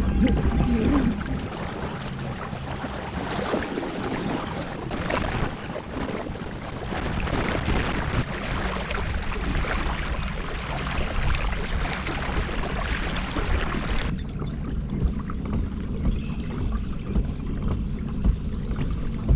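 Boat moving on the river: a steady rush of water and wind noise. About fourteen seconds in the hiss falls away, leaving a low rumble.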